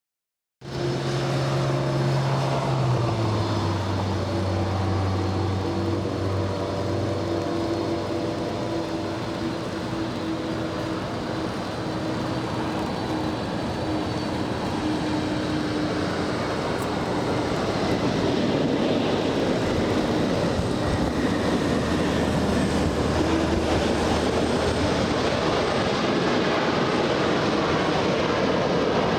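Jet airliner engines running, with a low hum that drops in pitch in the first few seconds, then a broad rushing roar that grows louder about two-thirds of the way through.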